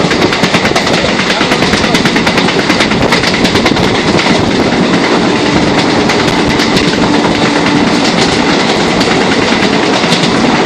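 A moving train heard from inside its carriage at the window: a loud, steady rush of running noise with a rapid clatter of wheels over the rails.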